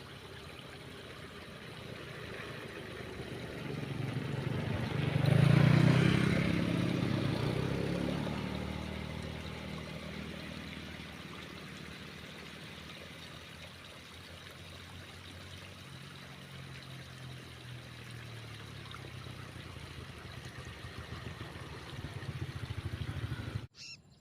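Heavy rain falling steadily, with a louder rushing swell lasting a few seconds about five seconds in.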